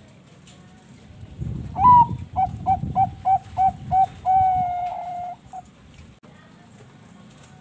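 Zebra dove (Bangkok perkutut) singing one phrase of its song, starting about two seconds in. It opens with a rising note, runs into about seven short cooing notes at roughly four a second, then holds one long note and ends with a brief final note.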